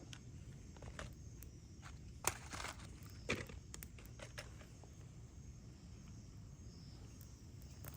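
Scattered light knocks and clicks over a low steady rumble, with a sharper knock a little over two seconds in and another about a second later.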